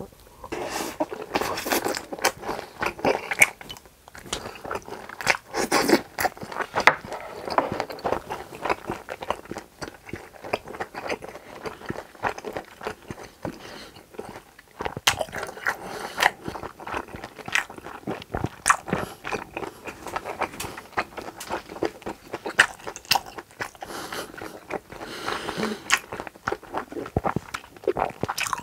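A person chewing and biting grilled pork intestines (gopchang), with dense irregular clicks of mouth sounds throughout.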